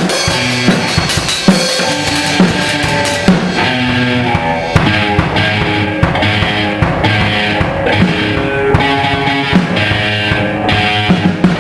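Rock music with a full drum kit keeping a steady beat under held pitched notes from bass and other instruments.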